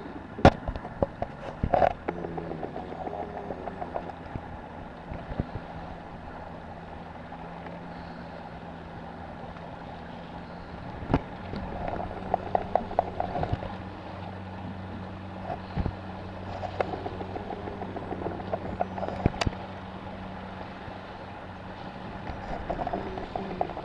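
Small fishing boat's engine running steadily under way, a low even hum, with bouts of water slapping and rattling and a few sharp knocks.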